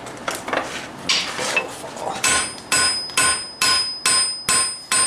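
Hammer blows on steel at the anvil while forging a knife blank: a few irregular knocks and scrapes, then from about two seconds in a steady run of strikes about twice a second, each with a bright metallic ring.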